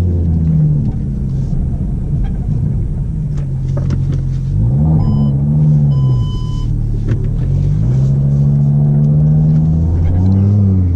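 Audi TT RS turbocharged five-cylinder engine droning through an Ego X aftermarket exhaust with its valves open, heard from inside the cabin while driving. The note holds mostly steady, dipping and then climbing again about four to five seconds in. Light squeaks and ticks from a camera case rattling in the boot, and two short high beeps around five and six seconds in.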